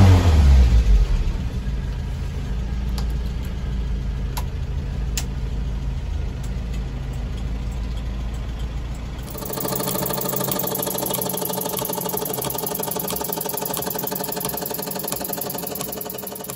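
Land Rover Series 3's 2.25-litre four-cylinder petrol engine idling steadily, running again after 15 years standing. About nine seconds in, it gives way abruptly to a small model engine running with a fast, higher-pitched whirr.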